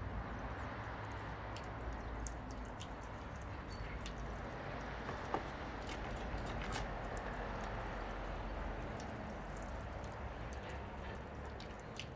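Wet cleaning sounds: water dripping and pattering with soft squishing, scattered small clicks and one sharper click about five seconds in, over a steady low rumble.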